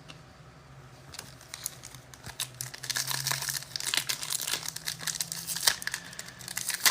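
Foil trading-card pack wrapper crinkling and tearing as it is ripped open by hand. It starts about a second in, with dense crackles that are busiest in the middle.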